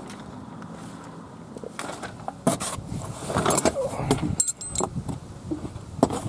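Handling noise from unpacking a metal exhaust crossover pipe: rustling and scattered knocks, with a brief metallic jingle about four and a half seconds in.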